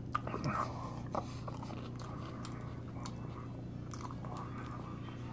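Close-up chewing and crunching of a mouthful of lettuce and poke-bowl salad, with small wet mouth clicks, most of them in the first second or so.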